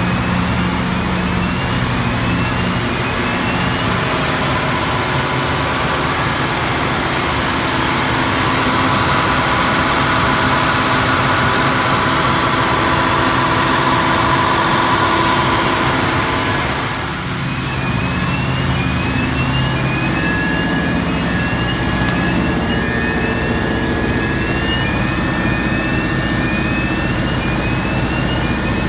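Cummins QST30 V12 diesel engine of a 1000 kW generator set running steadily, with a thick, even drone and a thin high whine over it. The drone dips briefly about two-thirds of the way through, and faint short rising chirps repeat about once a second over the last third.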